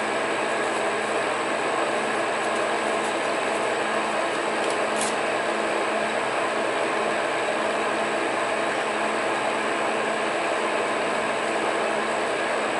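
Metal lathe running steadily, a constant machine hum with several fixed tones and a thin high whine, with a faint click about five seconds in.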